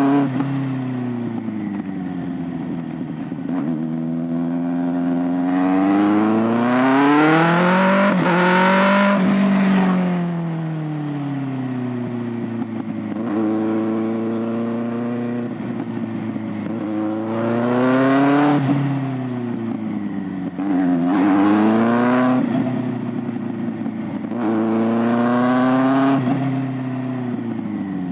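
Kawasaki ZX-6R 636's inline-four engine and exhaust revving as the bike is ridden. The engine note repeatedly climbs in pitch and then falls away, with the longest and loudest run about seven to ten seconds in and shorter swells later.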